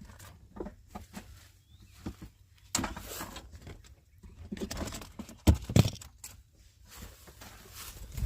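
Handling noise: scattered knocks, taps and rustling, with two heavy low thumps a little past halfway.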